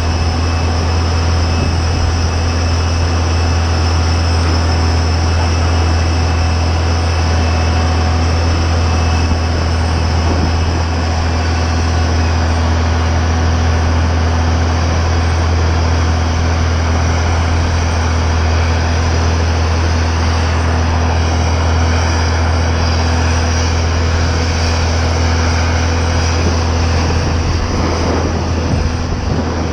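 Steady airliner noise around a parked Airbus A321neo: a strong deep hum with several steady whining tones over an even rush, and faint gliding pitches in the upper range about two-thirds of the way through.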